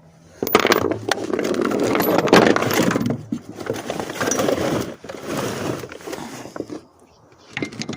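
Close handling noise: rustling and scraping with light clinks and knocks, heaviest in the first few seconds, then thinning to scattered clicks.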